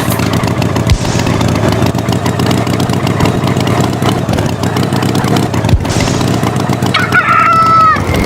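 A rooster crows about seven seconds in, one drawn-out call that falls in pitch at its end. It sounds over a steady, clattering mechanical rumble.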